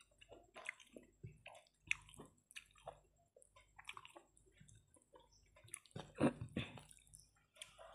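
Close-miked wet chewing and lip-smacking of a person eating rice by hand, with soft squishing and clicks as fingers mix the rice on the plate. A louder, deeper mouth sound comes about six seconds in.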